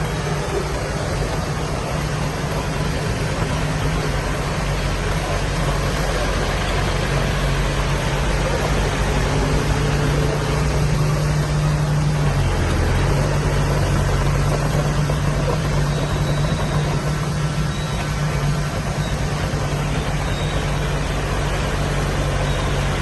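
Heavy diesel engine of earthmoving machinery running steadily, its pitch dipping briefly about halfway through.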